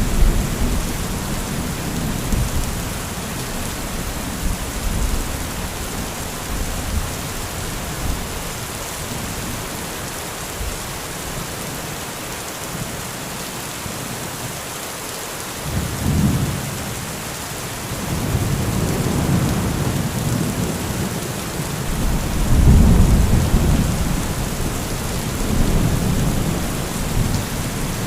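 Heavy rain falling steadily with rolling thunder. A rumble at the start fades away, and rumbles return about halfway through, growing to the loudest peals about two-thirds of the way in.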